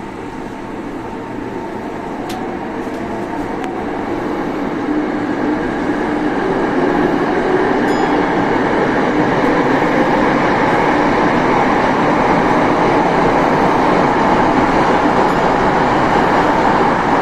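Saitama Railway 2000-series electric train running on the rails, its running noise and motor tones growing louder and rising in pitch over the first several seconds as it gathers speed, then holding steady.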